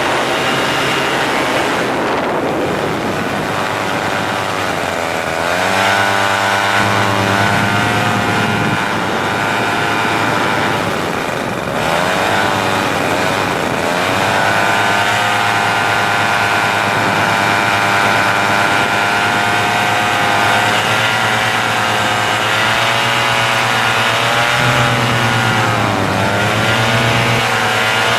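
A motor or engine running continuously, its pitch dipping and rising again a few times, as when the speed is changed.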